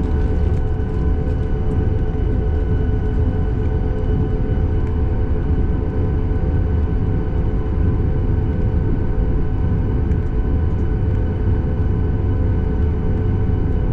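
Boeing 737 MAX 8 cabin noise: the CFM LEAP-1B engines' steady whine of several constant tones over a loud low rumble, heard from inside the cabin.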